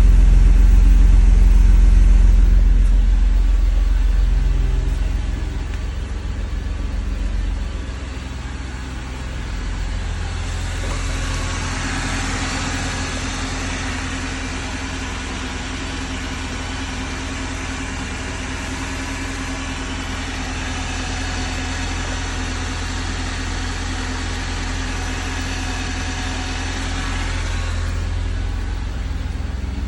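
Mercedes-Benz 300CE's 3.0-litre straight-six idling just after a cold start, heard at the tailpipe. The exhaust is loudest in the first few seconds, then settles lower, and a steady hiss joins it from about ten seconds in until near the end.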